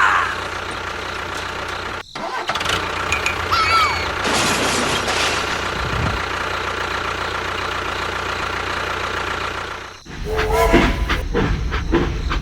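Vehicle engine running steadily, with a few short squeaky pitch glides over it. The sound cuts off sharply about two seconds in and again near the end, each time resuming straight away.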